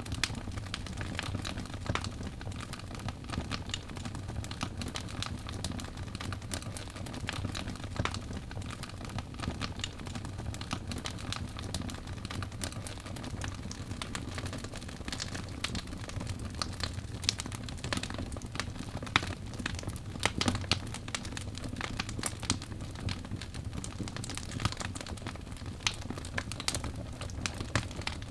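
Wood fire crackling, with irregular snaps and pops over a steady low rumble.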